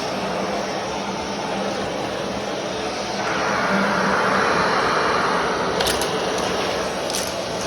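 Vacuum cleaner running steadily with a low hum. Its noise swells and rises from about three seconds in for a few seconds, and a couple of light clicks come near the end.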